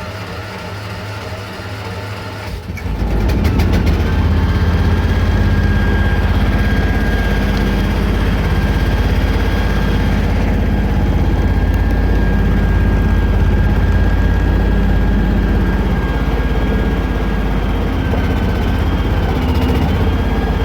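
Chevy 350 V8 engine of a 1978 C60 bucket truck running steadily. About three seconds in it gets louder, and about a second later a steady high whine comes in over it and holds.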